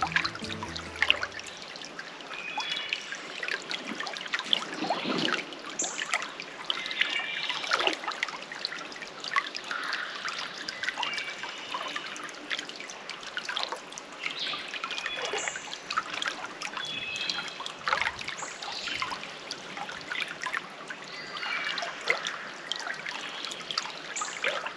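Water trickling steadily, with short high chirps scattered over it throughout.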